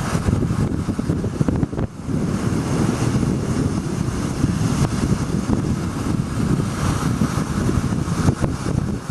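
Wind buffeting the microphone on a moving golf cart, mixed with the cart's running and road noise: a dense, gusting rumble that dips briefly about two seconds in.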